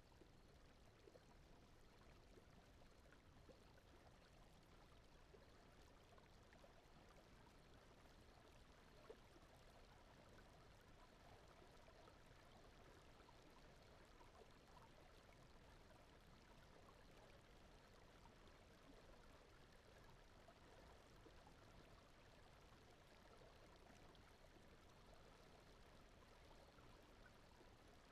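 Very faint, steady sleep-aid background of brown noise with a softly running stream, unchanging throughout.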